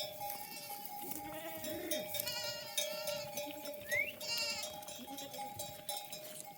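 Flock of sheep bleating, several wavering bleats about two and four seconds in, with bells clinking among the animals over a steady ringing tone.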